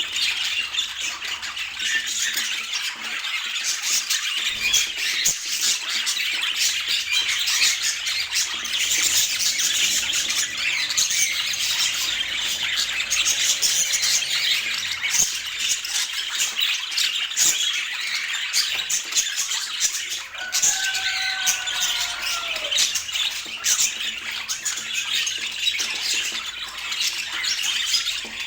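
Budgerigars chattering and squawking without a break, in a dense high-pitched twitter. About three-quarters of the way through comes a short call that glides downward.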